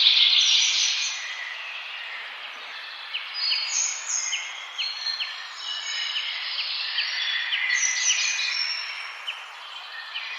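Several birds chirping and singing at once in a forest dawn-chorus-like mix, with a run of short, sharp repeated chirps a few seconds in.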